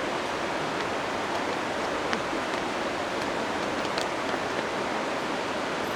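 Steady rush of flowing water, an even hiss with no rhythm.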